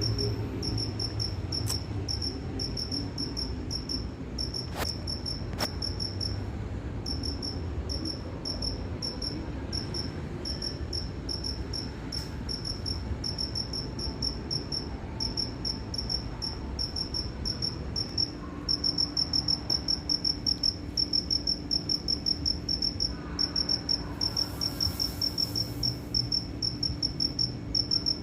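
A cricket chirping, a fast, even run of high chirps that breaks off briefly now and then, over a low steady background rumble.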